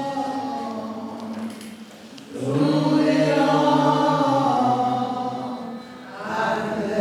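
Slow worship song sung in long held notes. One phrase fades out, a new, louder phrase begins about two and a half seconds in and holds until near six seconds, and another starts just before the end.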